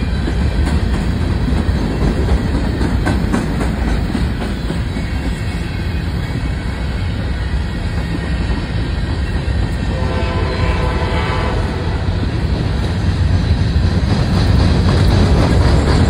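Freight train's open hopper cars rolling past close by: a steady heavy rumble with wheel clicks over the rail joints. A train horn sounds for about two seconds about ten seconds in.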